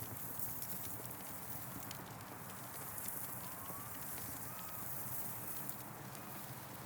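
Campfire crackling: a steady hiss of burning wood with scattered sharp pops and snaps, and a couple of faint short whistling tones in the middle.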